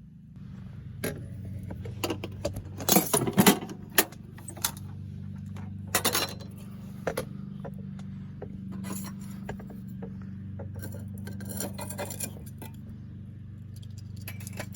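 Metal camping gear being handled: a series of clinks and clatters, loudest about three seconds in, with more around six and twelve seconds, over a steady low hum.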